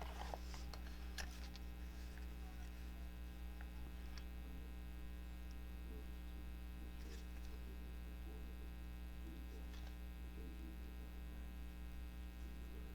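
Steady electrical mains hum, with a few faint light taps and clicks from handling at the work table.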